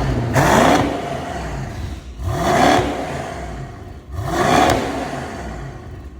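Mercedes-AMG E63 S twin-turbo V8 through an Akrapovič exhaust, revved in three blips about two seconds apart, each rising in pitch and falling away.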